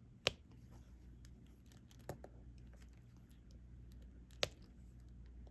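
Small sharp clicks and taps of a diamond-painting stylus picking up resin drills and pressing them onto the canvas: three distinct clicks about two seconds apart, with fainter ticks between them.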